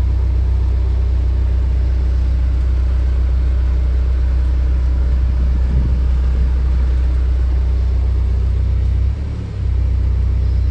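2004 Mahindra Scorpio's engine idling steadily, heard from inside the cabin as an even low drone. The drone dips briefly about nine seconds in.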